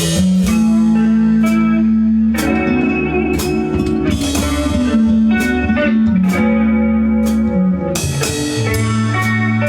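Live band music: guitar holding long notes over a drum kit, with regular cymbal and drum strokes.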